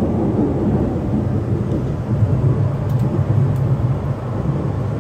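Steady low rumble of a moving train heard inside the passenger carriage: wheels running on the rails.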